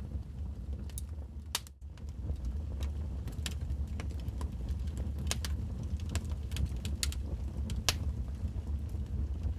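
Wood fire burning in a fireplace: irregular sharp crackles and pops over a steady low rumble, which drops out briefly about two seconds in.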